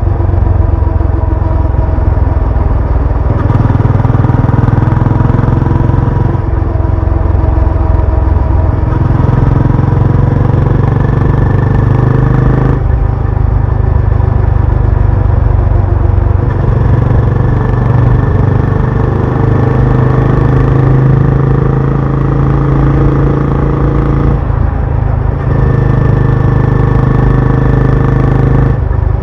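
Benelli Imperiale 400 single-cylinder motorcycle exhaust while riding, loud and steady, the engine note shifting up and down in pitch every few seconds.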